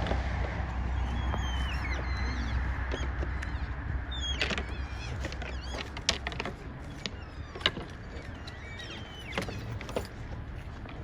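Elk sparring: irregular sharp clacks of antlers knocking together, with high gliding whistle-like calls in between. A vehicle's low engine hum fades out after about four seconds.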